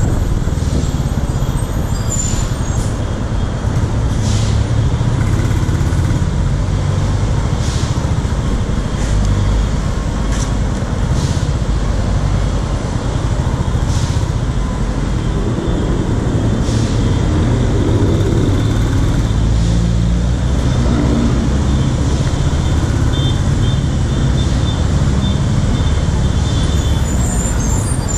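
Royal Enfield Classic 350's single-cylinder engine running at low speed in slow, heavy traffic, mixed with the steady low rumble of a bus and cars close by.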